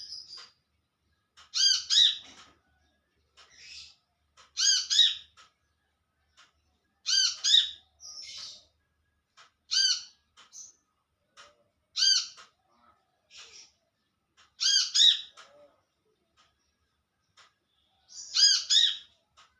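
Brown-throated sunbird (kolibri kelapa) calling: a ringing call phrase of a few rapid notes, repeated about every two to three seconds, with fainter single notes in between.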